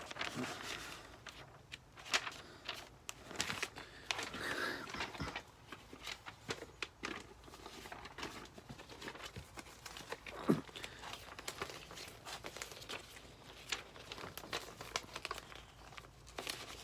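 Paper and packaging rustling and crinkling as printed booklets and posters are handled, with scattered small clicks and taps.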